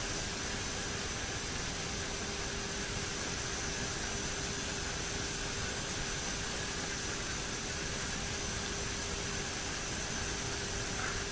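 Steady in-flight cockpit noise of a twin-engine turboprop airliner: an even rush with a constant low hum and a faint high whine.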